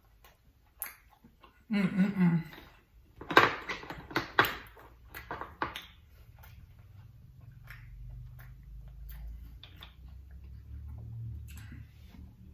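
Close-up mukbang eating sounds: a short hummed voice sound about two seconds in, then a run of loud, crisp bites and mouth clicks, easing into quieter chewing over a low background hum.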